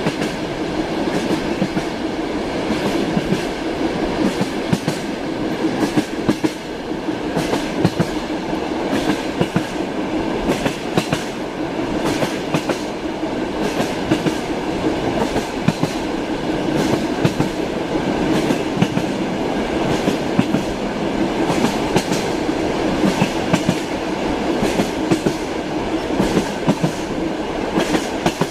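Passenger train running, heard from inside a compartment: a steady rumble of the carriage with the clickety-clack of wheels knocking over rail joints.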